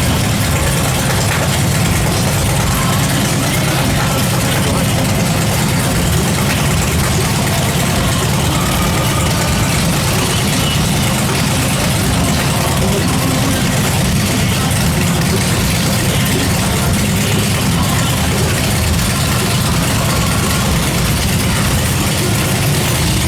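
Harley-Davidson V-twin motorcycle engine idling with a steady, deep sound.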